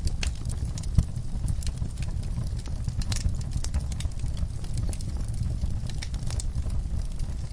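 Wood fire burning in a fireplace: a steady low rumble of flames with scattered crackles and pops, one sharper pop about a second in.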